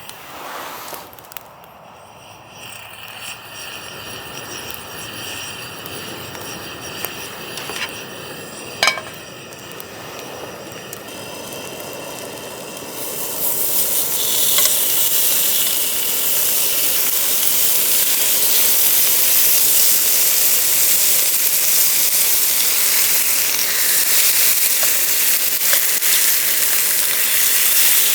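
Food sizzling in a hot pan: a hissing sizzle that builds and jumps louder about halfway through, then holds steady. A single sharp clink comes a little before the middle.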